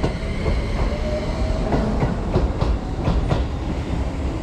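Keio Line electric commuter train moving through the station: wheels clacking in a regular rhythm over rail joints above a low rumble, with a faint rising whine from the traction motors.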